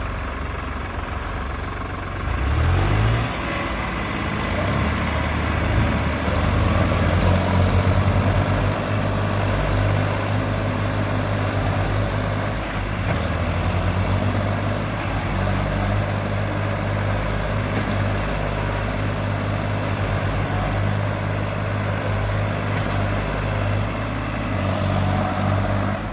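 Diesel tractor engine revving up about two and a half seconds in and then running hard at steady high revs under load, as it strains to pull a tractor stuck deep in mud.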